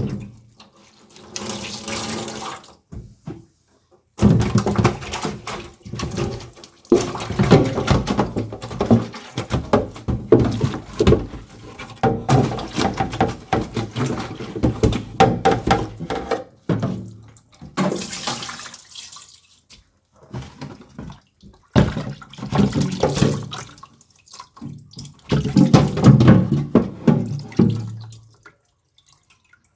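Water sloshing and splashing in irregular bouts: a long stretch of several seconds, then shorter splashes separated by brief pauses.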